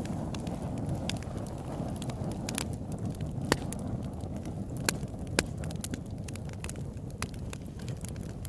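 Campfire burning: a steady low rush of flames with sharp, irregular crackles and pops, the loudest pops around the middle.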